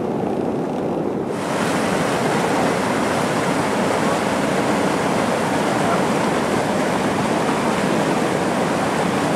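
Waterfall rushing: a loud, steady roar of churning water that swells a little about a second in.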